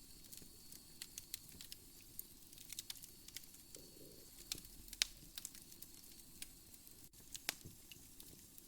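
Wood fire crackling in a fireplace: faint, scattered sharp pops, the loudest about five seconds in.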